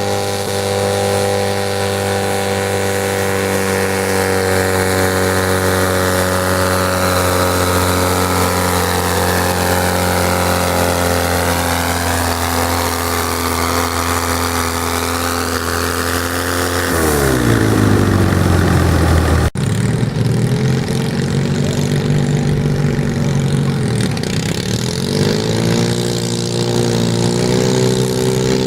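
Garden tractor engine running hard at steady high revs, then the revs fall sharply about seventeen seconds in. After an abrupt break, an engine runs again at steady speed, with a brief dip in revs a few seconds later.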